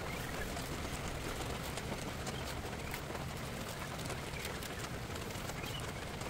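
Steady rain falling, with many small sharp drop ticks scattered through the steady hiss.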